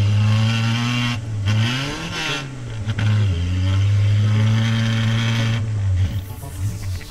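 Citroën AX engine revving hard as the car is driven, heard from inside the cabin. The revs drop and climb back about two seconds in, hold high again, then fall off near the end.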